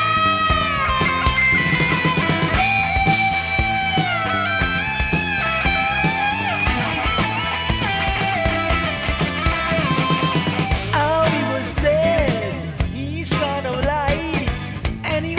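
Psychedelic hard rock: electric lead guitar holding long notes and bending them over bass and drums.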